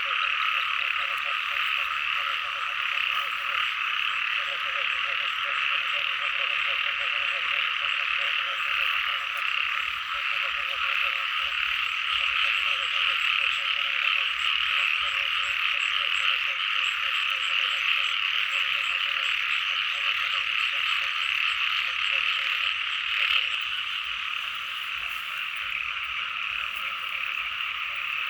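A dense chorus of many small frogs calling at once: a continuous high trilling mass, with a lower, rapidly pulsing croak beneath it that is strongest in the first half.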